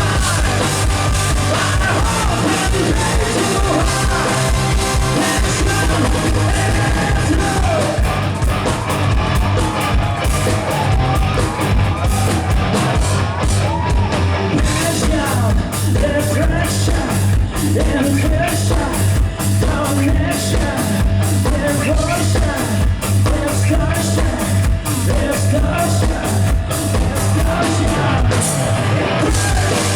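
Live rock band playing loudly with a singer's vocals over it, the drums keeping a fast, steady beat.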